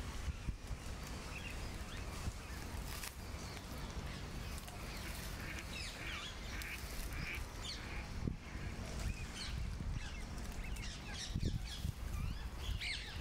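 Birds calling in short, repeated notes, busiest in the middle and again near the end, over a low steady outdoor rumble.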